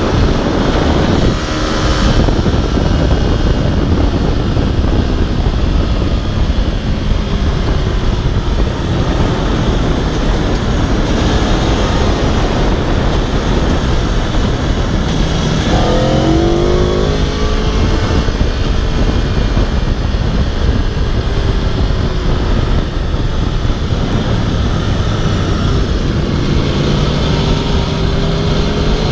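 Aprilia RSV4 sportbike's V4 engine under way at speed, its note mostly buried in a steady loud rush of wind and road noise. About halfway through, the engine note rises sharply as the bike accelerates hard.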